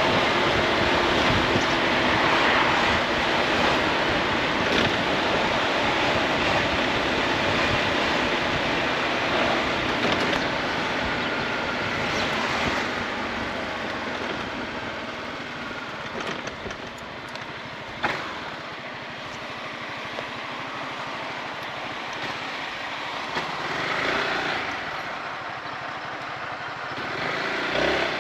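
Honda ADV 350 scooter's single-cylinder engine running on the move, under a steady rush of wind and road noise. The noise drops noticeably in the second half, and a single sharp click is heard about eighteen seconds in.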